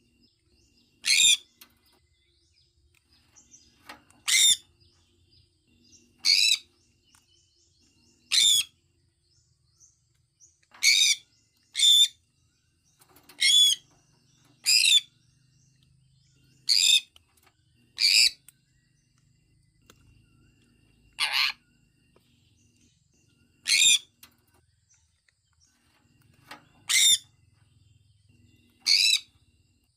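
Sun conure calling: short, shrill calls repeated every one to three seconds, about fourteen in all.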